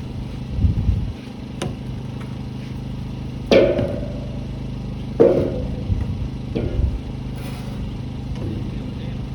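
An engine runs steadily throughout. Over it come two loud bangs with a short metallic ring, about three and a half and five seconds in, plus a few lighter knocks, as metal roof panels are handled.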